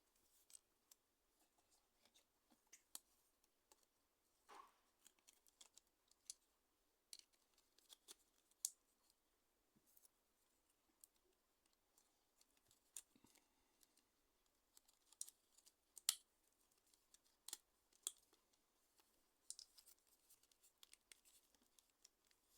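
Faint, irregular clicks and light scrapes of small tools and plastic parts being handled while working on a Nokia N95 8GB phone, with a sharper click about two-thirds of the way through.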